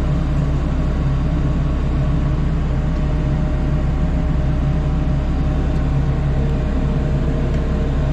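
Engine of the lifting machine running steadily at constant speed, a continuous low drone with no breaks.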